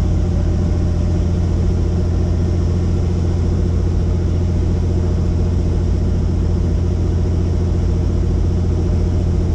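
Helicopter engine and rotor noise: a steady drone with a strong low hum that does not change.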